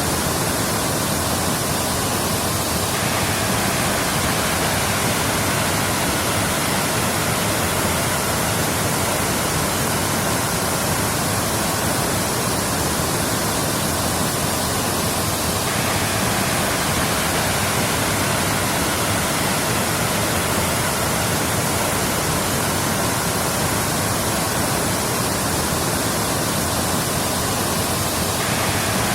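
Waterfall: a steady, full rush of falling water with no let-up, its tone shifting slightly about every 13 seconds in a repeating pattern.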